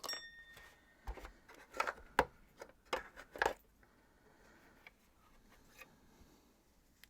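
Plastic parts of a Miele S234i vacuum cleaner being handled during a strip-down: a string of sharp clicks and knocks over the first few seconds, then quiet handling. It opens with a short high tone.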